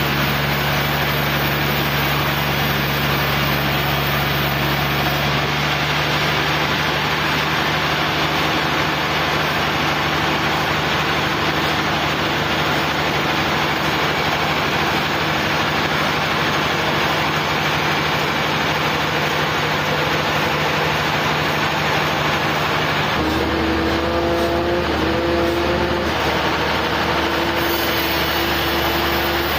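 Sawmill engine and saw running steadily with a loud, even noise. About three-quarters of the way through, the engine's note changes.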